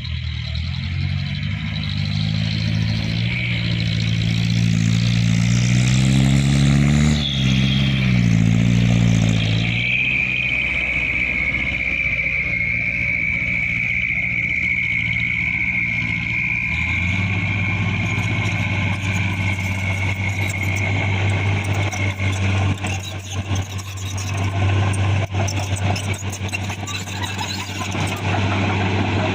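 Mitsubishi Canter HDX dump truck's diesel engine under load, revving up twice with a drop in pitch between, then running steadily. A high whine sounds through the middle stretch.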